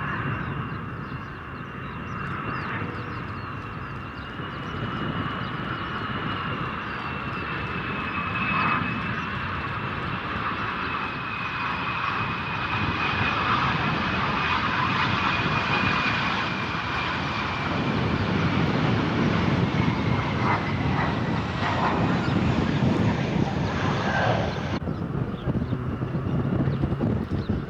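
Jet airliner engines running as the aircraft passes, a high whine slowly falling in pitch over a broad rumble that grows louder. The whine cuts off abruptly a few seconds before the end.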